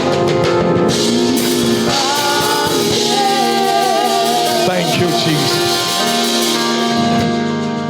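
Live worship music: a voice singing a wavering, held melody over sustained instrumental chords.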